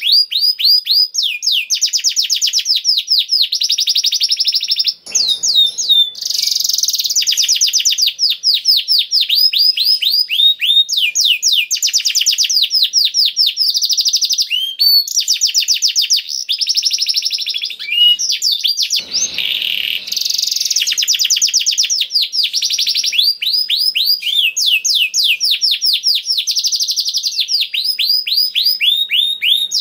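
Canary singing a long, continuous song of rapid trills and repeated chirps. It switches to a new phrase every second or two and barely pauses.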